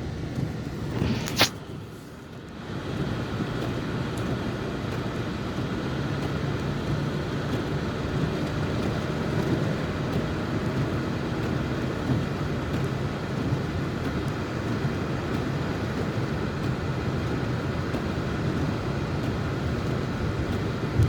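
Car driving, heard as a steady rumble of tyres and engine. A sharp knock about a second and a half in is followed by a brief quieter moment before the rumble settles back in.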